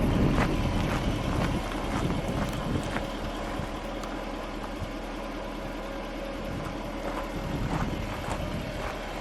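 Supercharged 5.0-litre V8 of a 2010 Jaguar XKR running, louder for the first second or so and then settling to a steady low idle.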